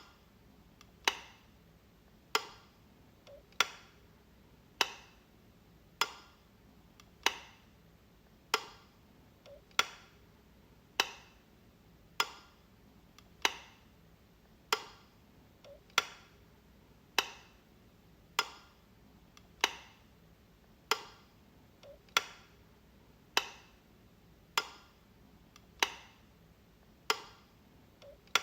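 Light switch clicking, flicked over and over at an even pace of about one sharp click every 1.2 seconds. Each click has a short decay, and a much fainter click falls between a few of them.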